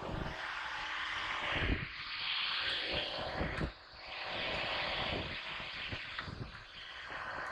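FPV racing quadcopter's motors and propellers rushing in flight, surging and easing as the throttle changes, with gusty wind buffeting the onboard GoPro microphone.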